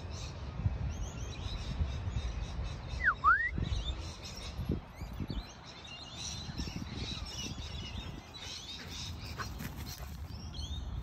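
Small birds chirping and twittering in the background over a low rumble. About three seconds in, a single sharp whistled note dips and rises.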